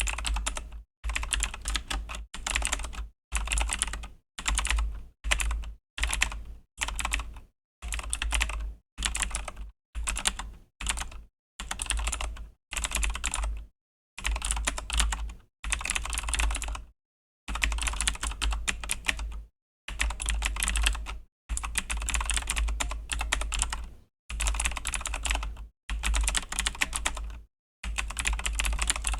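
Typing on a Razer BlackWidow V3 mechanical keyboard with Razer Green clicky switches. The keystrokes come in rapid runs of clicks broken by short pauses.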